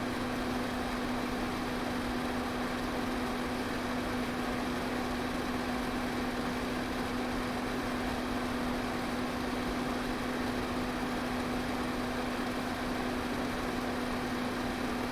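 Electric fan running steadily: an even rush of air with a constant motor hum that does not change.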